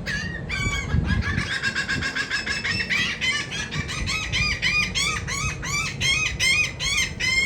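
Gulls squawking in a long run of loud, repeated calls, rapid at first and then about three a second, as they squabble over food.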